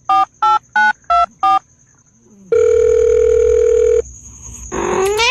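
Five telephone keypad tones dialed at about three a second, then one long ring tone of about a second and a half. A cat's meow begins near the end, rising in pitch.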